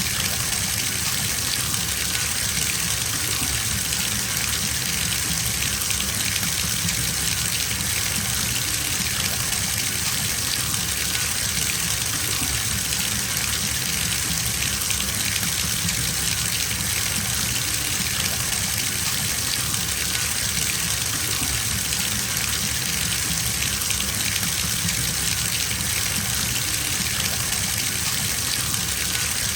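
Bathtub filling from a running tap: a steady, unbroken gush of water pouring into the tub.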